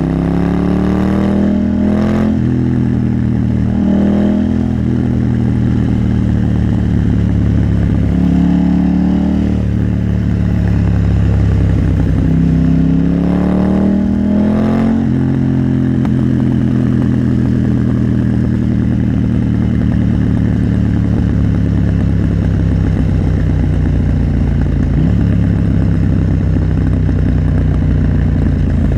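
KTM 890 Duke R parallel-twin motorcycle engine under way, rising in pitch as it accelerates with quick breaks at gear changes about 2 and 4 seconds in. It climbs again twice more, then settles into a steady cruise for the second half.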